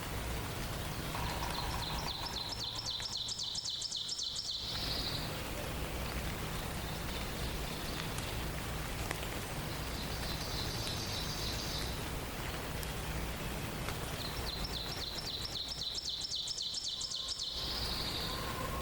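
A songbird's high, rapid trill, each about two seconds long, sung three times: a couple of seconds in, about ten seconds in, and near the end. A steady background hiss runs underneath.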